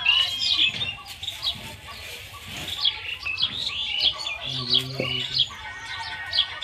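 Birds chirping: many short, quick chirps in a steady stream, with a brief low hum a little past the middle.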